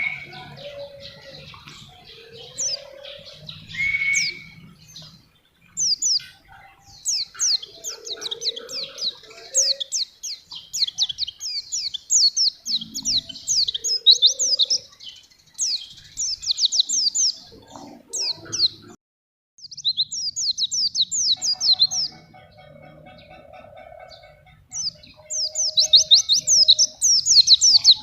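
White-eye (pleci) singing: long phrases of quick, high notes, each sweeping downward, run together into rapid trills lasting a few seconds at a time, separated by short pauses.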